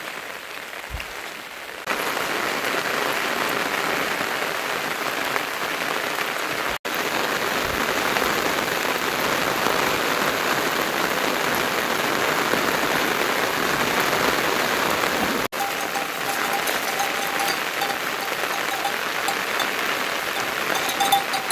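Heavy rain falling steadily, softer for the first couple of seconds and then louder.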